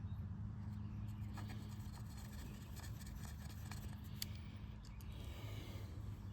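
Faint scraping and a few light clicks of small metal engine parts, the valve cover and its screws, being handled by hand, over a steady low hum.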